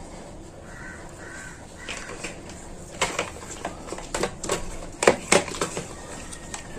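Two short pitched calls about a second in, then a run of sharp clicks and knocks from hands handling parts or tools, loudest about five seconds in.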